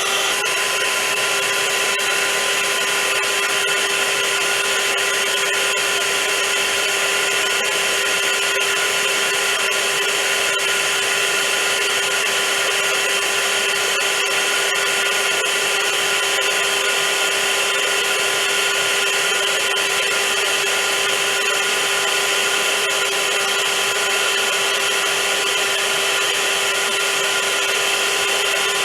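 Vacuum cleaner running at a steady speed: an even rushing hiss over a constant motor whine, with no change in pitch or level.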